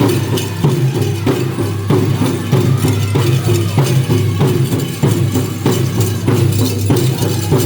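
Powwow drum group playing: a large drum struck in a steady, fast beat, with a group of singers voicing a song over it.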